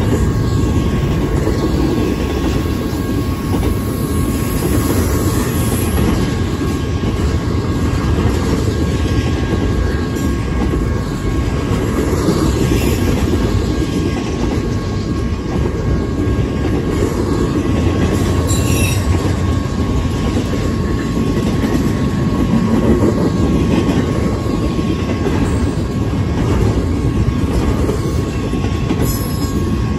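Double-stack intermodal freight cars rolling past close by: a steady loud rumble of steel wheels on rail with clickety-clack at the rail joints and a thin, steady squeal over it. Brief sharper squeals come twice, about midway and near the end.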